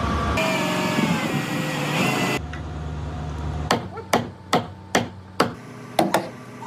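A hammer striking repeatedly, about two blows a second, starting a little past halfway, each blow a sharp knock with a short ring. Before it, a steady background noise that cuts off abruptly twice.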